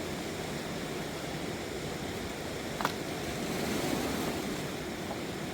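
Rushing water of a river in flood: a steady, even roar, with one short sharp click nearly three seconds in.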